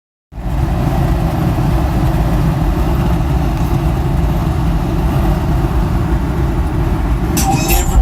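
Steady low rumble of a car engine idling. Music with heavy bass starts playing through car subwoofers near the end.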